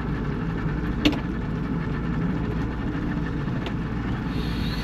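Boat's outboard motor idling steadily, with a sharp knock about a second in.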